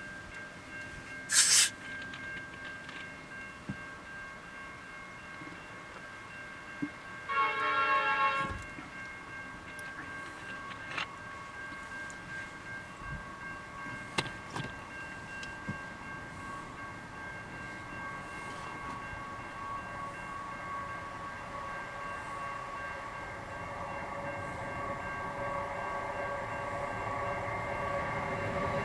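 Diesel freight train approaching, sounding one short horn blast about seven seconds in. The rumble of the locomotive and wagons then grows steadily louder toward the end. A brief sharp noise comes about a second and a half in.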